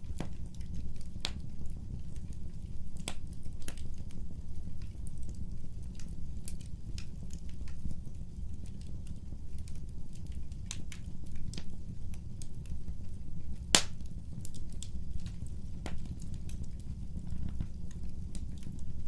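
Wood fire burning, with a steady low rumble of flames and scattered sharp crackles and pops of burning wood; one pop about two-thirds of the way through is the loudest.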